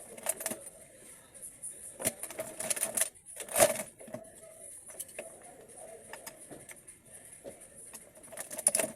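Small metal parts and tools clinking and rattling as they are handled, in scattered clusters of sharp clicks; the loudest clatter comes a little past a third of the way in. A steady high hiss runs underneath.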